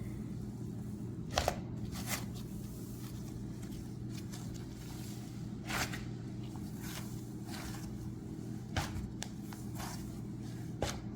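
Hands working glitter-topped cloud slime, giving scattered soft crackles and squishes a few seconds apart over a steady low hum.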